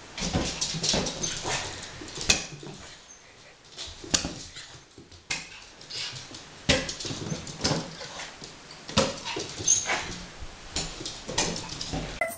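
Small dog yipping and whining as it chases and jumps at a balloon, with many short, sharp taps spread through.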